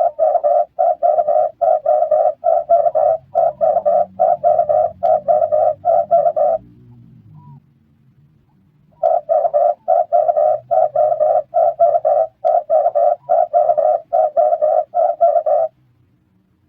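Red turtle dove cooing: a rapid run of short, evenly spaced coos, about three a second. The run breaks off for a couple of seconds and then starts again.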